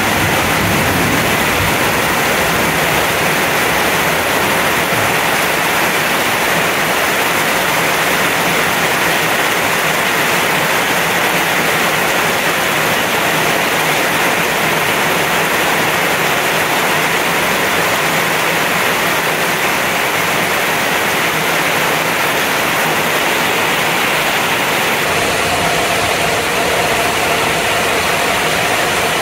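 Heavy rain pouring down onto pavement, lawn and roofs: a dense, steady hiss. A low hum joins in near the end.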